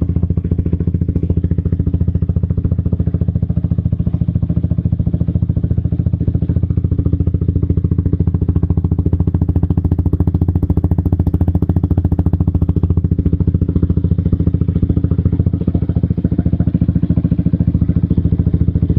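Yamaha R15 V3's 155 cc single-cylinder engine idling steadily through an aftermarket Akrapovic exhaust, a loud, even, bassy exhaust note with no revving.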